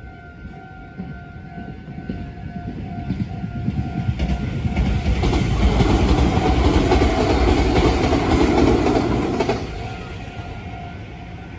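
An electric train passes through a Japanese level crossing. Its rumble and wheel clatter build from a few seconds in, peak in the middle and drop off suddenly near the end. The crossing's electronic warning bell rings on in a steady repeating beat, heard clearly before and after the train.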